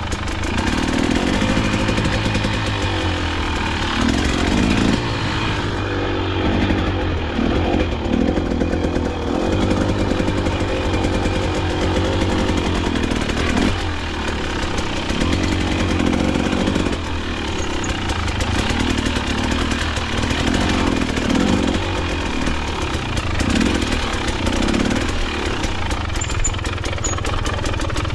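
KTM dirt bike engine running under way on a trail, its revs rising and falling every second or two with the throttle.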